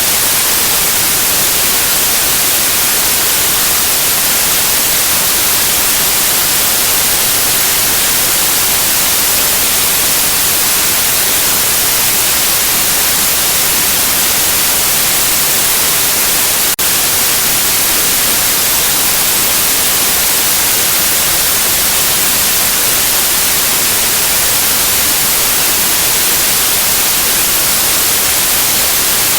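Steady, loud white noise, an even hiss across all pitches, played as a baby sleep aid. It is unbroken apart from one brief tick about two-thirds of the way in.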